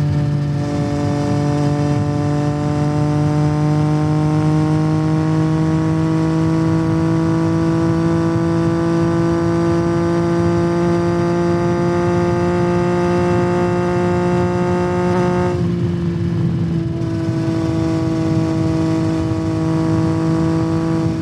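2021 Yamaha MT-09's three-cylinder engine through a Yoshimura R77 carbon exhaust, pulling in one gear with its note climbing slowly and steadily. About fifteen seconds in the pitch drops sharply and the note thins for a moment, then it pulls on at a lower pitch.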